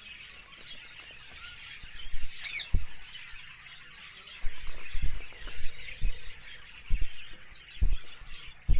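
Small birds chirping steadily in the background, with a series of dull low thumps and handling rustles from about two seconds in.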